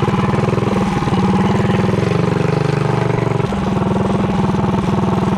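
Mini bike's small single-cylinder engine running steadily while warming up. It picks up briefly about a second in, then drops back abruptly at about three and a half seconds.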